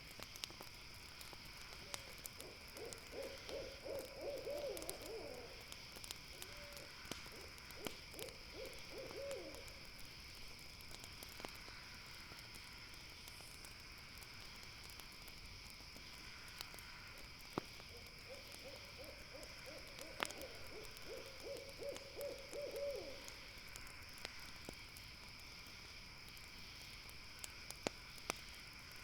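An owl calling in two bouts of quick, fast-repeated low notes, the second after a long pause, over the scattered crackle of a campfire and a steady high-pitched hum.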